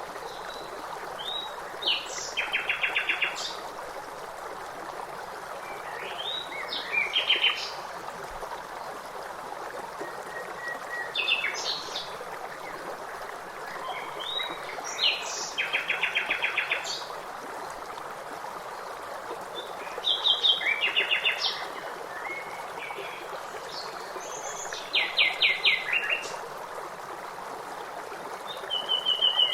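A songbird singing a short phrase that ends in a rapid trill, repeated about every four to five seconds, over the steady rush of a stream.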